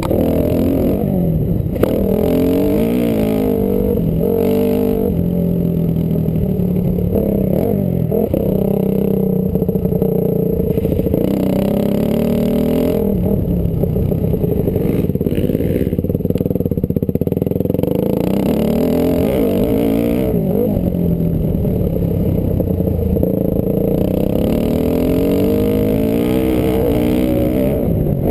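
Honda CRF250R single-cylinder four-stroke motocross engine revving hard and easing off again and again, its pitch climbing and dropping every few seconds as the rider works the throttle and gears around the track.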